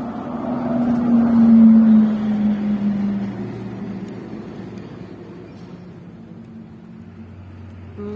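A motor vehicle passing by: its engine hum swells to a peak about a second and a half in, drops slightly in pitch and fades away.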